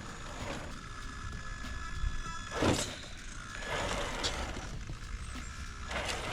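Radio-controlled car's small electric motor whining through its gears in two spells as it drives across the water on its pontoons, with several short bursts of rushing noise in between.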